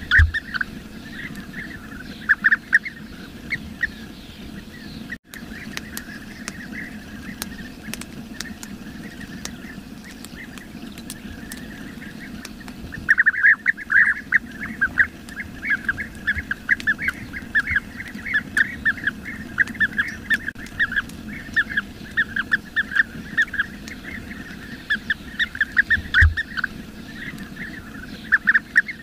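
Bee-eaters calling: quick runs of short, rolling notes, a few at the start, then a long unbroken stretch of chatter from about halfway through.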